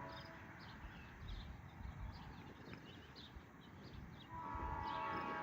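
Locomotive air horn with an unusual multi-tone chord, fitted from the engineer's horn collection: a blast cuts off right at the start, then low train rumble with a few short high chirps, and the horn blows again about four seconds in.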